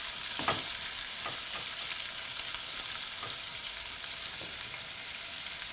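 Diced liver sizzling steadily in oil in an aluminium pot, with a few light knocks of a wooden spoon stirring it in the first seconds. The liver's released juices are cooking off, leaving it to fry in the oil.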